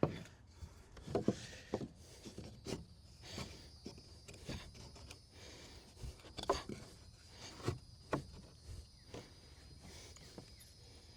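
Scattered light knocks and rubbing of wood being handled on a wooden shed deck, about a dozen uneven taps and clunks.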